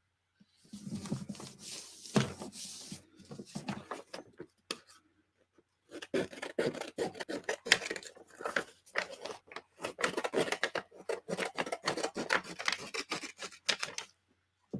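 Paper being rubbed and handled on a craft table: rapid scratchy strokes in two stretches, with a short pause a little past the middle.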